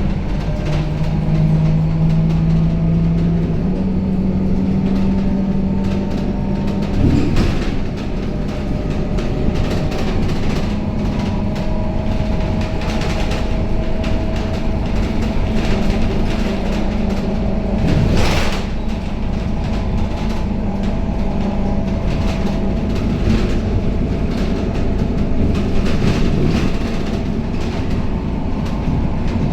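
Cabin noise inside a Scania K270UB city bus on the move: the diesel engine runs with a steady hum, its pitch shifting briefly near the start, under a faint whine. Small clicks and rattles run throughout, with two sharper knocks, about seven seconds in and about eighteen seconds in.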